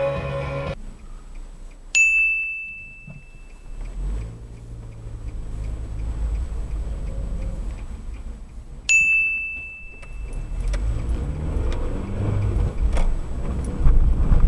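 Engine and road rumble heard from inside a moving car. A high electronic beep sounds twice, about seven seconds apart, each fading over about a second.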